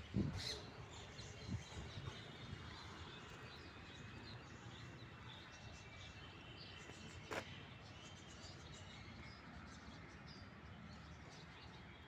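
Birds chirping faintly over steady outdoor background noise, with a few sharp knocks, the loudest right at the start.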